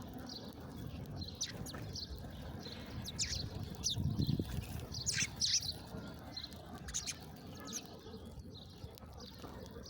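Small birds chirping: many short, quick chirps, thickest around the middle, over a low background noise.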